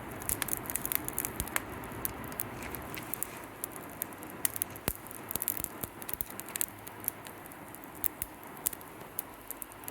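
Wood fire of pruned avocado branches and scrap lumber burning in a fire pit, crackling with irregular sharp pops over a steady hiss.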